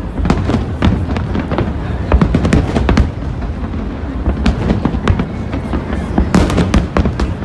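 Fireworks display: a rapid run of sharp bangs and crackles over a continuous low rumble, with a denser burst of loud cracks near the end.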